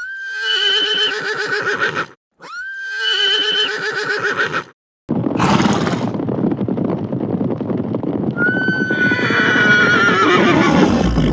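Horse whinnying: the same neigh twice, about two seconds each, then after a short gap a noisier stretch that ends in a longer whinny falling in pitch near the end.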